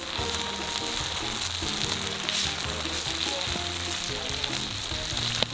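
Korean pancake (buchimgae) batter sizzling as it fries in a pan, a steady hiss, with background music underneath.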